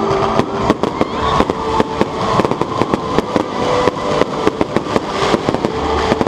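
Fireworks going off: a fast, irregular string of bangs and crackles from shells bursting overhead, several a second.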